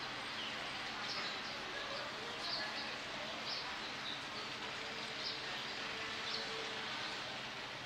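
Steady outdoor background noise with a small bird chirping now and then, short high calls roughly once a second.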